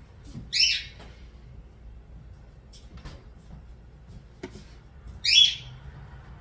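A bird gives two short, high chirps, about five seconds apart, each dipping slightly in pitch; faint light clicks sound in between.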